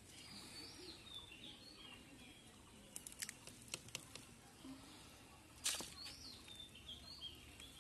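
Faint birdsong, two short runs of chirping phrases near the start and near the end, over scattered clicks and scrapes of bare hands digging in dry soil among tree roots; the loudest scrape comes about two thirds of the way through.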